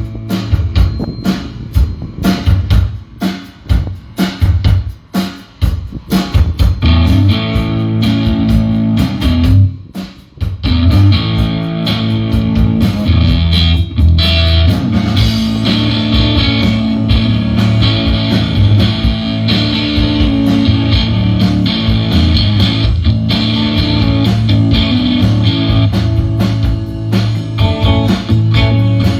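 Live rock band playing an instrumental passage on electric guitar, bass guitar and drum kit. It starts as separate drum hits and chords, drops out briefly about ten seconds in, then the full band settles into a steady groove with a sustained bass line.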